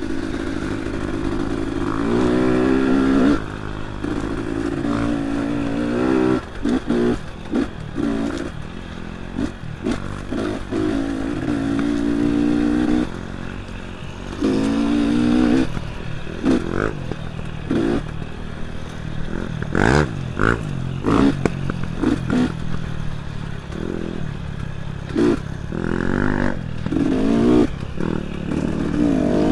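Dirt bike engine revving in bursts, the throttle opened and closed again and again, with longer pulls in the first half and quick, choppy blips later. Clattering of the bike runs under it, and there are a few sharp knocks about two-thirds of the way through.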